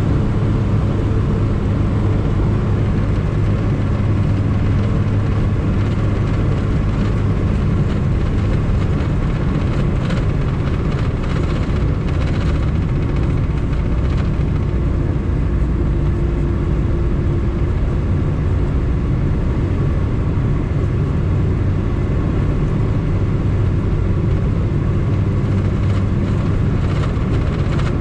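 Lada's 1.5-litre, 68 hp four-cylinder petrol engine running while driving, with tyre and road noise, heard from inside the car. The drone is steady, with small shifts in engine pitch along the way.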